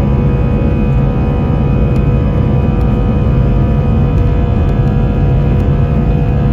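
Jet airliner's engines running at takeoff power during the takeoff roll, heard from inside the cabin. A steady, loud low rumble with several steady whining tones above it.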